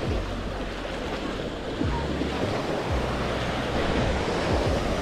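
Baltic Sea waves washing onto a sandy beach in a steady wash of surf, with wind rumbling on the microphone now and then.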